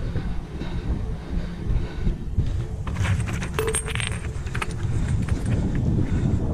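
Rummaging through dumpster trash: a cluster of sharp clinks and rattles of hard items being moved about three to four seconds in, over a steady low rumble of handling and wind on the microphone.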